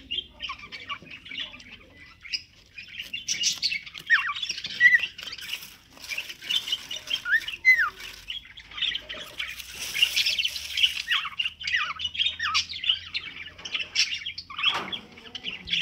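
Small birds chattering continuously, with squawks and short high chirps, several of them quick notes sliding down in pitch.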